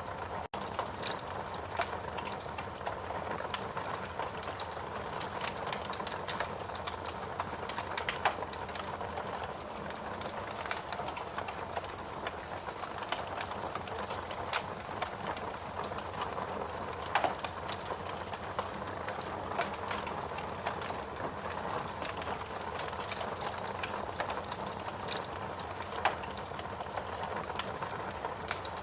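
Wood log fire in a fireplace crackling steadily, with a constant hiss and a dense run of small pops and ticks; a few sharper pops stand out, about eight, seventeen and twenty-six seconds in. A split-second drop-out comes just after the start.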